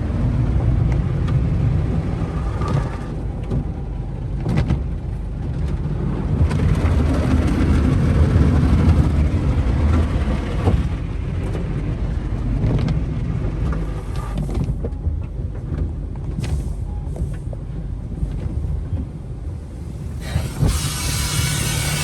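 A car going through a Sonny's tunnel car wash: a steady low rumble from the cloth brushes and mitter curtains working over the car, with water spraying and scattered ticks. Near the end a louder spray hiss starts.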